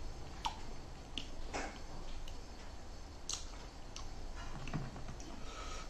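Eating sounds: chewing with scattered short, wet mouth clicks and smacks, about ten over a few seconds.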